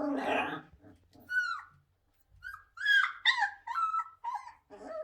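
Siberian husky puppies whining and yelping in a quick run of short, high-pitched calls that bend up and down in pitch, after a brief rough growl at the start.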